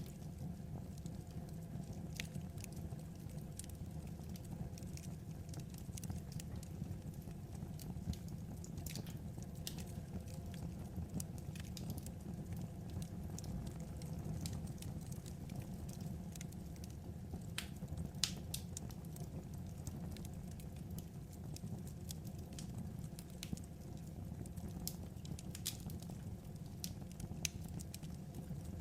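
Wood fire crackling: a steady low rumble with irregular, sparse pops and snaps.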